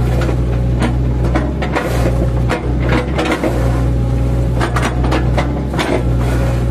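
Mini excavator engine running steadily while its bucket chops into a felled oil palm trunk, with repeated cracks and knocks of the wood splitting, several clustered around the second and third seconds and again near the end.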